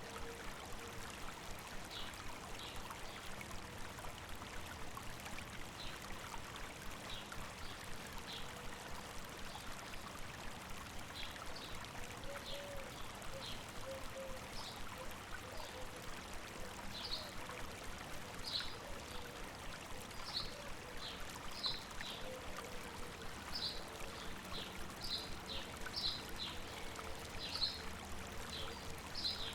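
A river running over rocks with a steady babbling rush, and short high bird chirps over it that come more often in the second half.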